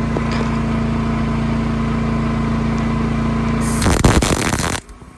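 A steady mechanical hum, then about four seconds in a loud crackling burst lasting about a second: an arc welder laying a short tack weld on a steel gusset. The level drops sharply as the crackle ends.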